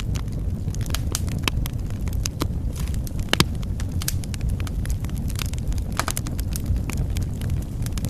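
Wood fire burning in a fireplace: a steady low rumble with frequent irregular crackles and pops, one louder pop about three and a half seconds in.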